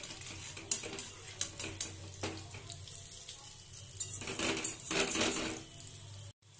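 Batter-coated pointed gourd leaf fritters frying crisp in oil in a steel kadai: a crackling sizzle with sharp clicks and scrapes against the pan, thickening into a longer scraping sizzle about four seconds in.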